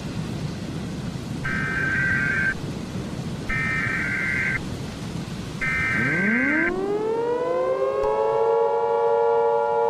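Emergency Alert System SAME header: three roughly one-second bursts of warbling data tone over a hiss of static and low rumble. About six seconds in, a siren winds up from a low pitch and settles into a steady chord of tones.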